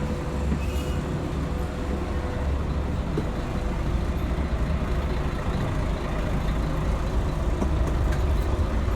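Scania L113CRL bus's diesel engine running with road noise, heard from inside the cabin as a steady low drone. A faint steady whine sits over it for the first few seconds.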